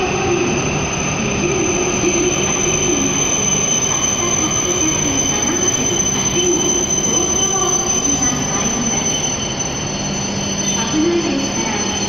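W7 series Shinkansen train rolling slowly along the platform to a stop, a steady high-pitched squeal over the even rumble of the train.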